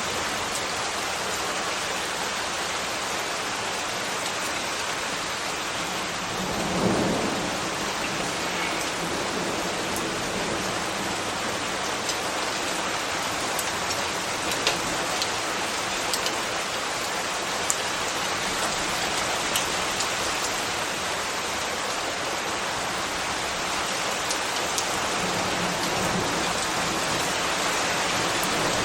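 Steady rain falling, an even hiss of drops with scattered sharper drip ticks. A brief low rumble swells and fades about seven seconds in.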